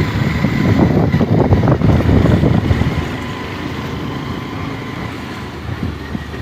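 Wind buffeting the microphone over the running of a moving vehicle, a dense, fluttering rumble that is loudest in the first three seconds and eases a little after, with a faint steady high whine.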